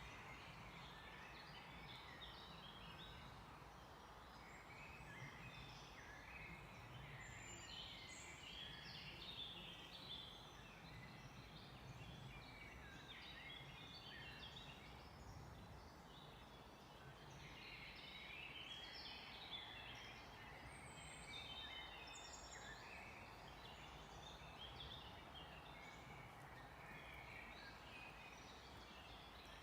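Faint chorus of several songbirds, many short chirps and trills overlapping, over a steady background hiss.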